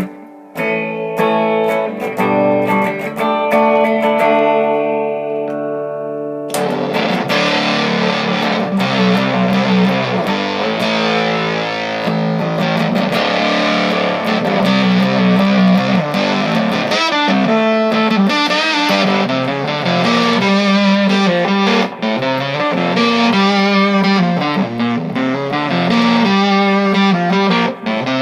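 Electric guitar, a Gibson Les Paul Standard through a Vox AC15 valve amp, playing clean picked notes that ring into each other. About six seconds in it switches abruptly to a thick distorted tone from an overdrive or fuzz pedal, and the playing continues with that gain.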